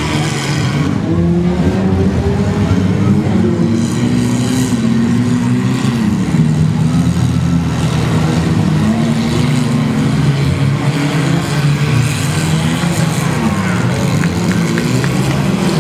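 Several compact demolition-derby cars' engines revving up and falling back at once, their pitches rising and dropping over one another.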